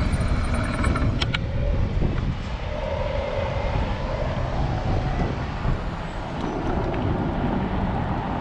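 Wind buffeting the microphone and road rumble while riding an electric bike, with passing traffic; a couple of sharp clicks about a second in.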